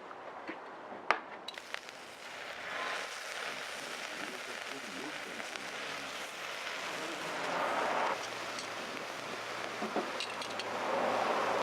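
Food sizzling on a hot iron griddle over a charcoal fire: a sharp click and a few ticks about a second in, then a steady hiss that starts about two seconds in and swells twice.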